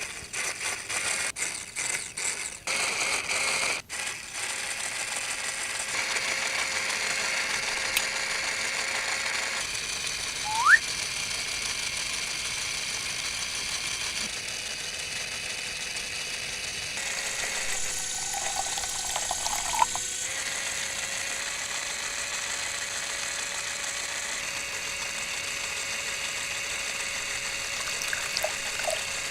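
Small DC motor pump running steadily with a hiss of liquid flowing, after a few seconds of irregular clicking and rattling.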